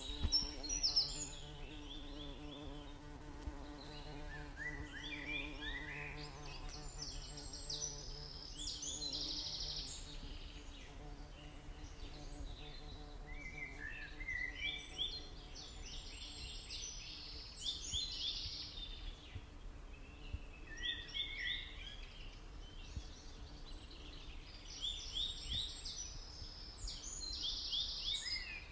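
Faint birds chirping in bursts of short, quick high calls that come back about every ten seconds, over a low steady hum that fades out about a third of the way in.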